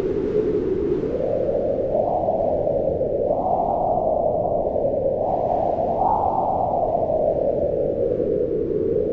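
Strong wind howling over a steady low rumble. The hollow howl rises in pitch in gusts over the first six seconds, then slowly falls.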